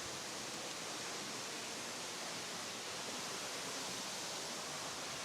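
Waterfall: water falling onto rock, a steady even rush of spray.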